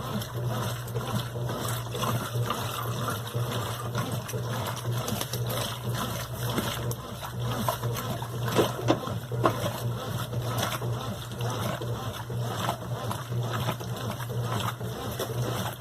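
Brastemp BWQ 24 washing machine running with water moving inside it over a steady low hum, with a couple of sharper knocks about nine seconds in.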